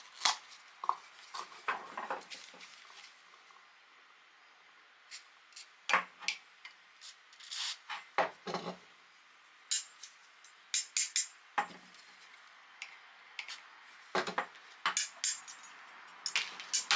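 Steel fire tongs being handled: irregular metallic clinks and knocks, some single and some in quick clusters.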